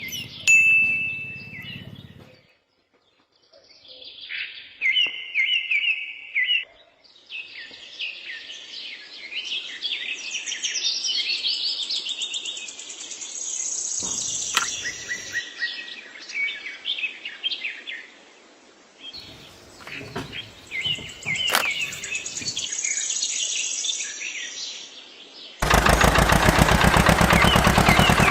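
Birds chirping and singing in repeated short phrases. About 25 seconds in, a loud, steady, rapidly pulsing motor sound starts suddenly and covers the birdsong.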